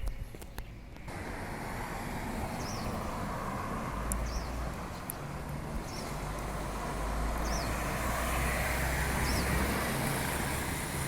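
Steady outdoor noise with a low traffic rumble, over which a bird gives a short, high chirp about every second and a half.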